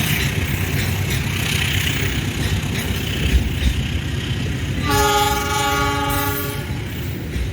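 Train running with a steady rumble, then a locomotive horn sounds one blast of about two seconds, a chord of several notes, a little past halfway.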